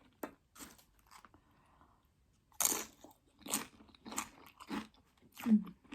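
Close-up crunching and chewing of Doritos nachos, crisp chip crunches coming a few times a second. There is a short lull about a second in, and the loudest crunch comes about two and a half seconds in.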